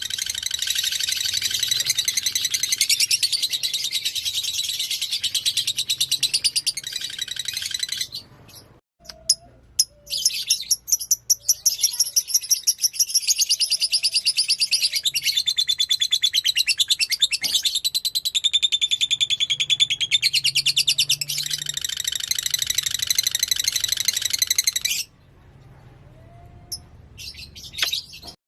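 Fighter lovebird singing a long, rapid, high-pitched chattering trill, in two long runs broken by a pause of about two seconds, and stopping a few seconds before the end.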